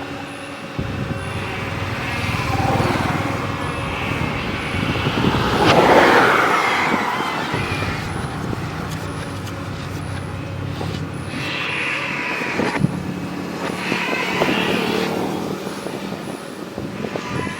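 Excavator machinery working, with motor and hydraulic whine that changes in pitch. A louder rushing burst comes about six seconds in.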